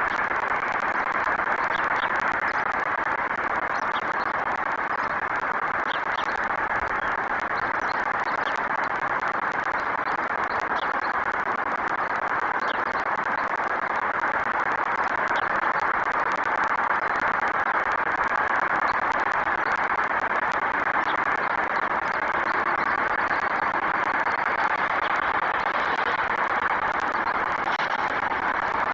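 Steady outdoor background noise with faint, brief high bird chirps every second or two.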